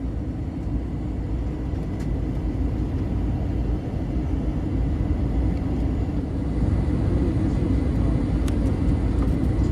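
Steady low rumble of engine and airflow noise inside an Airbus A321's passenger cabin, getting a little louder about two-thirds of the way through.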